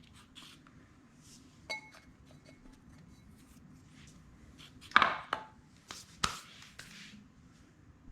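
A small plant spade pressing and scraping potting mix in a planting container, with a short ringing clink about two seconds in and a few louder scrapes and knocks around five to seven seconds in.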